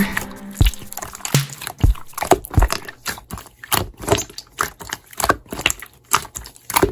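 Slime being squeezed and pressed by hand, making irregular wet clicks and pops, about two or three a second.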